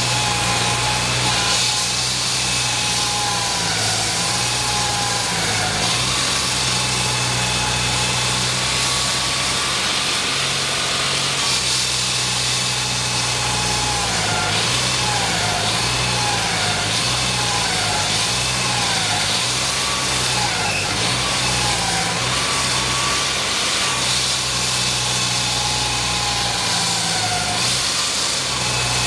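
An engine running steadily at idle with a continuous low hum, its pitch wavering up and down for several seconds about halfway through.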